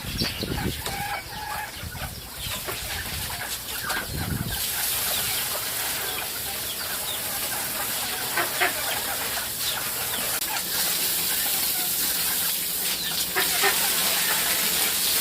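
Chickens clucking, a scatter of short calls over a steady hiss. A low rumble underneath stops suddenly about four and a half seconds in.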